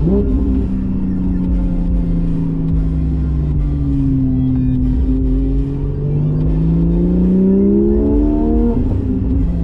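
Porsche 718 GTS 4.0's naturally aspirated flat-six, through a Kline stainless exhaust with the valves open. It gives a quick rise in revs at the start, then runs steadily, dips, and pulls up in pitch for about three seconds under acceleration before the revs drop near the end, as at a gearshift.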